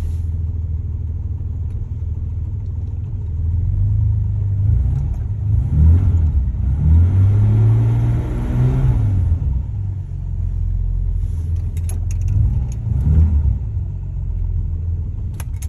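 Jaguar car engine running shortly after a cold start, with its cold-start switch flipped off. The engine speed rises and falls a few times, from about four to nine seconds in and again around thirteen seconds.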